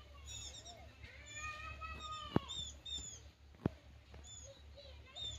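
Small birds chirping, many quick high calls repeating one after another, with two sharp clicks a little past the middle, over a low steady hum.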